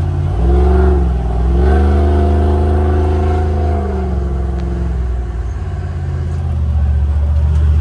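Race-built Jeep's LS V8 engine heard from inside the open cab as it pulls away: the revs climb about half a second in, dip briefly, rise and hold, then drop back about four to five seconds in.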